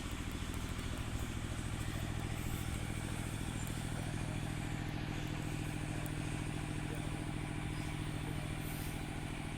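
Small engine running steadily at idle, an even low hum that holds one pitch.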